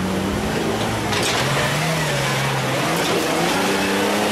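Jeep Wrangler TJ's engine running at low revs as it crawls through an off-road rut. Its pitch wavers with the throttle, lifting and dropping back about two seconds in.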